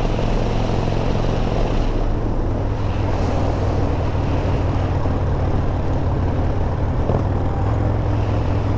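Harley-Davidson V-twin engine running steadily under way, a constant low drone with no break.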